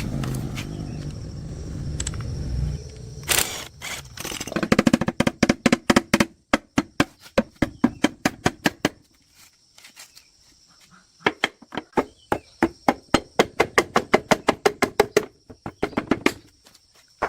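A low rumbling noise, then two runs of rapid sharp taps or knocks, about five a second, with a pause of about two seconds between them.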